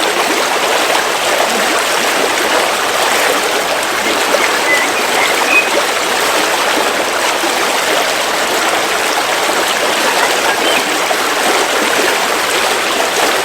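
River water flowing steadily, an even rushing with small splashes throughout.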